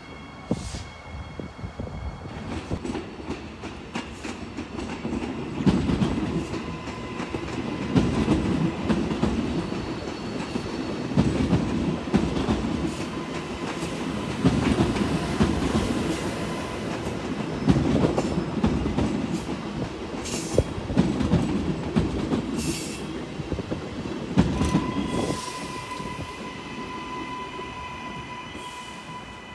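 A train passing close by, its wheels clacking over rail joints in a repeated run of knocks every few seconds. The sound builds up over the first few seconds and fades near the end.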